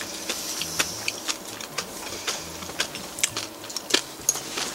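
A person chewing crisp fried fish-bone crackers (hone senbei) with irregular crunches several times a second. The sharpest crunch comes about four seconds in.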